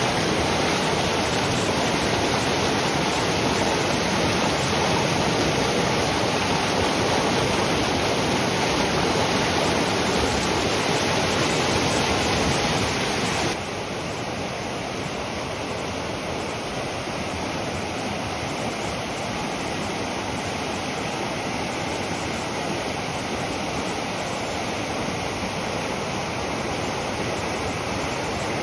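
Rushing water, a steady hiss-like rush of falling or fast-flowing water, dropping suddenly a little in level about 13 seconds in.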